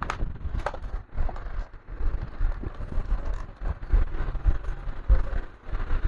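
Handling noise from a laptop and its charger being moved about on a workbench: scattered light knocks, clicks and scrapes over a low rumble.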